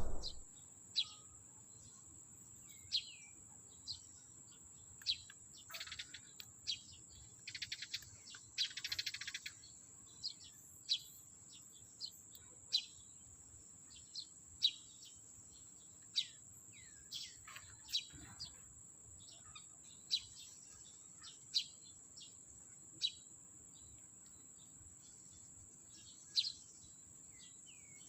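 Eurasian tree sparrows chirping: single short, falling chirps every second or two, over a steady high-pitched whine. A couple of brief rustles come about six and eight seconds in.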